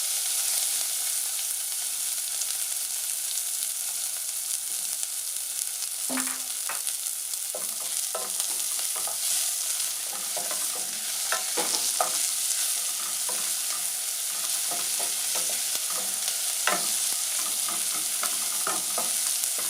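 Chopped onions sizzling steadily in hot vegetable oil in a pan, with a spoon scraping and clicking against the pan as they are stirred from about six seconds in.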